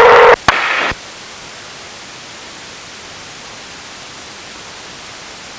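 Aviation radio static. A loud burst with steady tones cuts off within the first half second, then a click and a short quieter burst, then a steady hiss of open-frequency noise.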